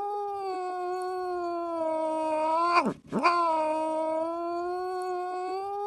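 A domestic cat's long, drawn-out yowl, held at a steady pitch. About three seconds in it drops sharply and cuts out for a moment, then comes back and runs on, the second half sounding like the first played in reverse.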